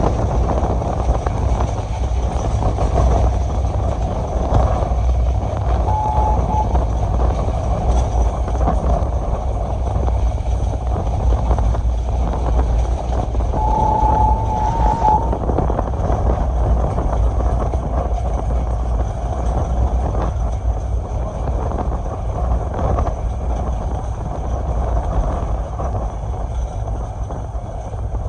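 Passenger express train running along the track: a steady low rumble of wheels and rushing air. Two brief high tones sound, one about a quarter of the way in and a longer one near the middle.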